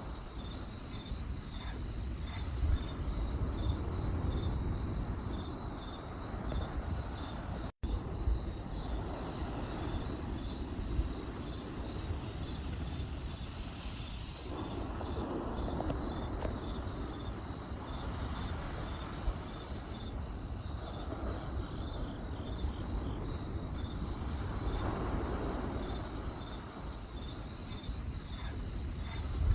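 Crickets chirping in a steady, pulsing high trill over a campfire's low rumble, with occasional sharp crackles and pops from the burning wood. The whole sound cuts out for a split second about eight seconds in.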